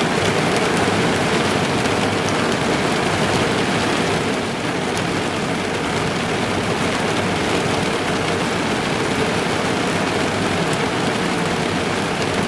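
Steady heavy rain drumming on a car's roof and windows, heard from inside the car, with scattered individual drop ticks.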